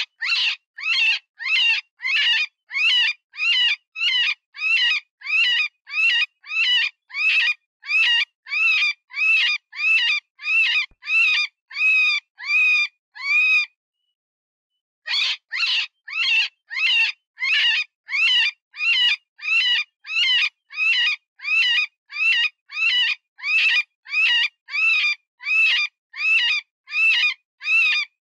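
Cottontail rabbit distress cries, the wounded-rabbit sound used to lure predators: short, high-pitched screams repeated about twice a second. They break off for about a second and a half midway, then go on.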